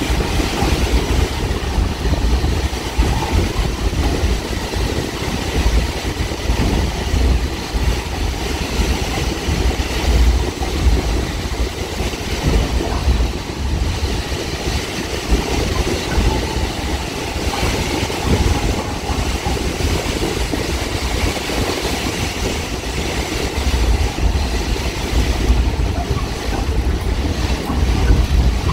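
Caltrain Nippon Sharyo gallery cab car running at speed, heard from inside: a steady low rumble of wheels on the rails with the noise of the moving car.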